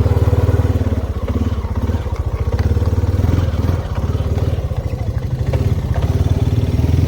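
ATV engine running steadily with an even low pulsing, with a few light rattles from the machine.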